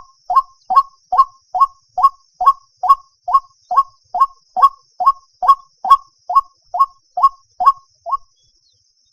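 White-breasted waterhen calling: a steady run of short, hollow 'cuốc' notes, about two to three a second, that stops about a second before the end.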